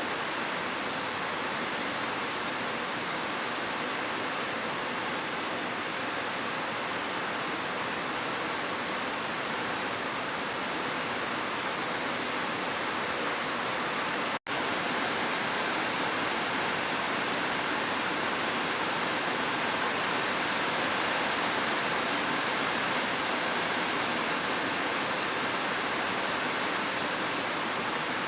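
Heavy rain falling as a steady, dense hiss, cut by a split-second dropout about halfway through.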